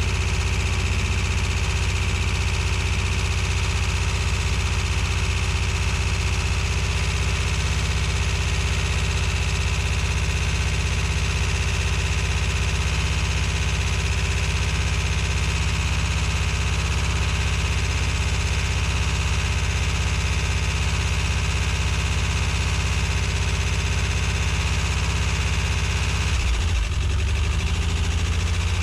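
Freshly rebuilt 1.9-litre water-cooled flat-four (Waterboxer) engine of a 1985 Volkswagen Vanagon idling steadily on its first run after the rebuild. The deep running note changes briefly about 26 seconds in.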